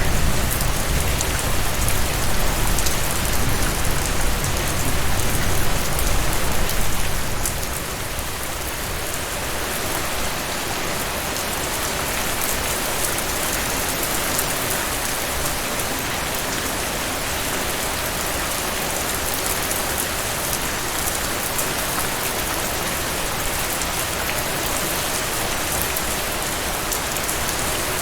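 Heavy rain falling steadily. A low rumble of thunder runs under it for the first seven seconds or so, then dies away.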